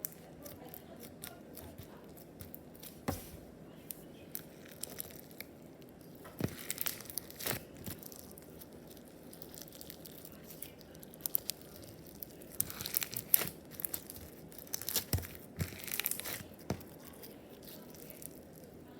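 Small slime being squished and stretched by hand, making sticky clicks, pops and crackles that come in scattered bursts, busiest about six seconds in and again from about twelve to seventeen seconds.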